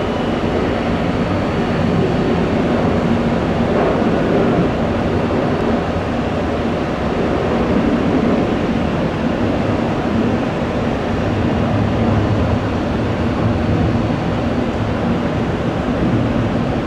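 Jet airliner engines running at an airport, a steady loud rush with a faint high whine over it.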